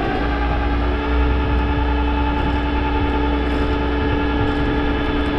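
Tow truck winch pulling a car up onto the truck, its whine holding a steady pitch over a deep drone and the steady hum of the truck's engine.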